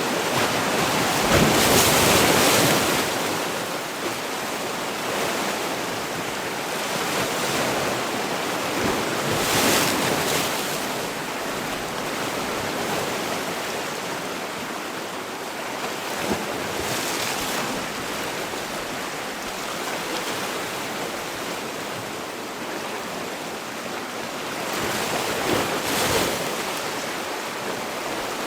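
Sea waves: a continuous wash of surf that swells into louder breaking waves four times, about every eight seconds.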